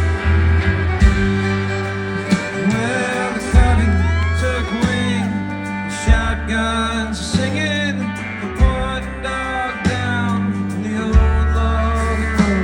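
Country band playing live: guitars over a steady repeating bass line, with a sung or bowed melody line wavering on top.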